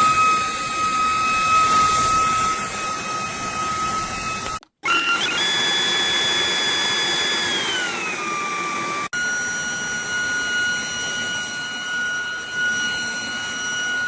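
Cordless stick vacuum's motor running with a steady high-pitched whine, heard in cut-together clips. A brief dropout comes about four and a half seconds in. About three seconds later the whine glides down in pitch as the motor slows to a lower setting. An abrupt cut near nine seconds brings in another steady whine.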